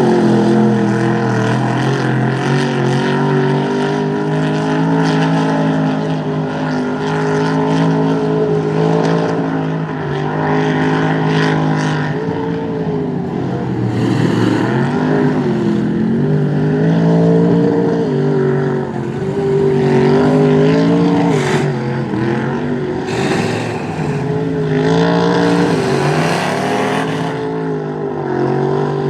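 Rear-engine Dodge mud truck's engine revving hard and unevenly through a mud bog run, its pitch climbing and dropping again and again. Several short bursts of hissing noise come through over the engine.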